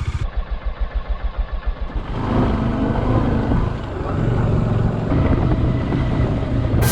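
Bajaj Dominar 400 motorcycle's single-cylinder engine running, pulsing evenly at low revs at first, then pulling harder and steadier from about two seconds in. A sudden loud sound cuts in at the very end.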